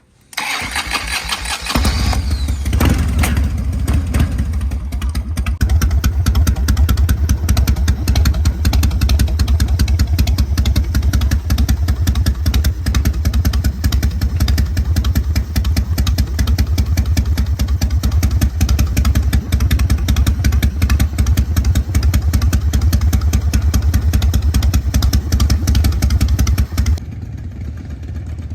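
2006 Harley-Davidson FXDB's Twin Cam 88 V-twin, carbureted and breathing through Rinehart exhaust pipes, cranked on the starter for about a second before it catches. It then idles loudly and steadily with a deep, even pulse, and near the end the sound drops markedly in level while the engine keeps running.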